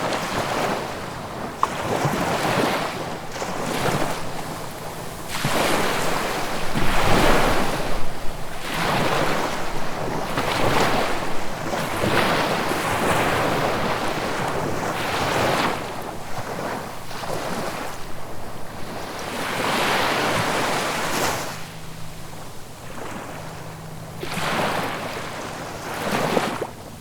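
Sea waves washing onto the shore in a steady run of surges, a new one every second or two.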